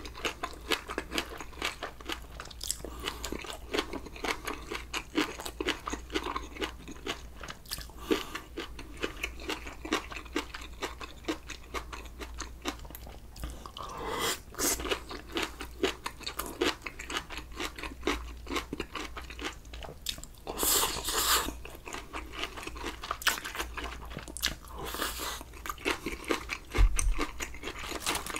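A person chewing and crunching food close to the microphone, a steady run of small wet clicks with louder crunchy stretches about halfway through and again twice near the end.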